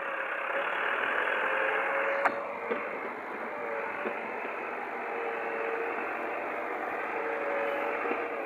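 Tractor engine running steadily, with two sharp clicks a little over two seconds in.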